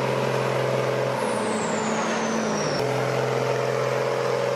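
M35 military cargo truck's engine running steadily under load as the truck drags through deep mud. In the middle the engine note briefly changes and a high whistle falls in pitch, then the steady note cuts back in abruptly.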